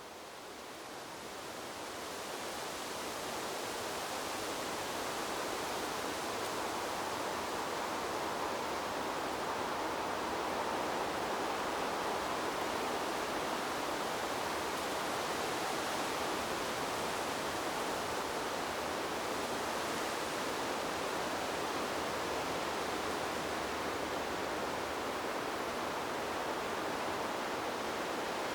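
Wind blowing through a bamboo grove, a steady rushing hiss of stirred leaves that fades up over the first few seconds and then holds even.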